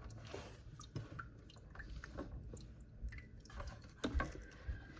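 Scattered light clicks and knocks of the plastic parts of a countertop hydroponic garden being handled, with a few louder knocks about four seconds in and a faint drip or slosh of its water.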